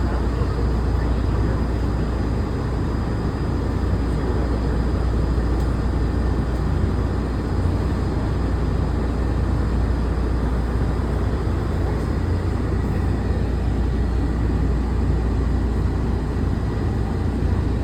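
Walt Disney World monorail train running, heard from inside the passenger car: a steady low rumble with a faint thin high whine above it.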